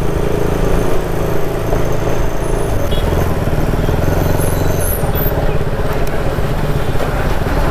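Motorcycle running at a steady cruising speed on the road, with a heavy low wind rumble on the microphone.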